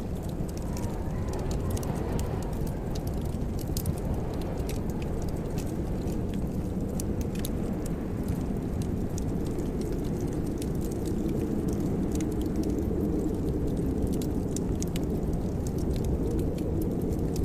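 Fireplace fire crackling: a steady low rumble of burning wood with scattered sharp crackles and pops throughout.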